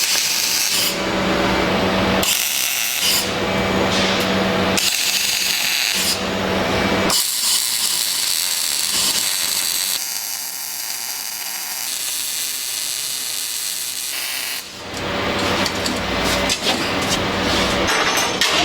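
Power tool run in short bursts about a second apart, then more steadily, with a lower stretch in the middle and a rattle near the end.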